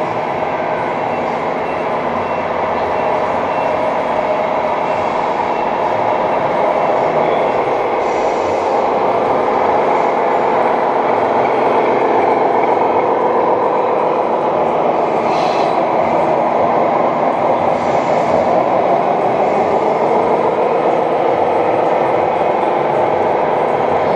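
1:14 scale RC truck running with a steady mechanical drive noise that swells slightly after a few seconds.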